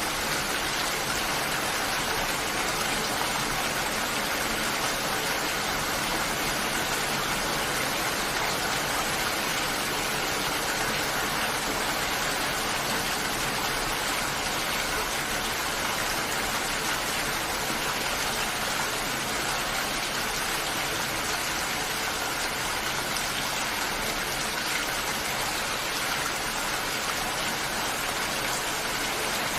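Steady rain falling, an even hiss of drops with no single strikes standing out.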